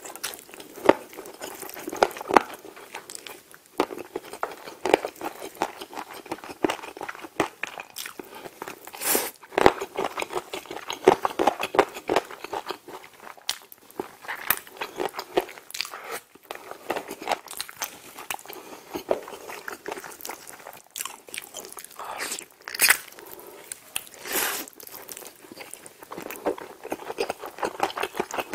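Close-miked eating: biting and chewing smoked chicken leg meat coated in creamy rosé sauce. A dense run of small mouth clicks and smacks, with a few louder bursts along the way.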